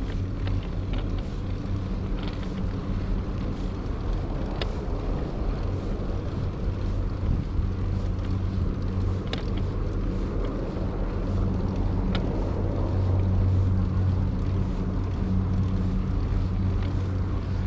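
Steady low engine hum mixed with wind rumbling on the microphone of a moving bicycle, with a few light clicks.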